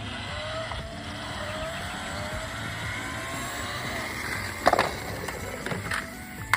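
A car engine sound that rises slowly in pitch, like a vehicle revving or speeding up, with a sharp knock about three-quarters of the way in.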